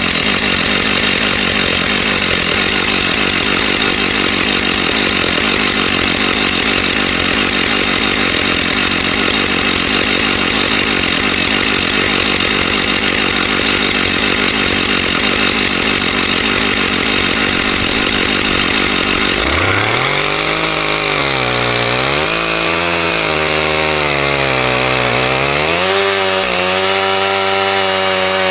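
Stihl MS661 two-stroke chainsaw ripping lengthwise through a log on a chainsaw mill, running steadily under load. About 20 s in, the engine note comes through clearly and its pitch falls and rises several times, then holds higher near the end.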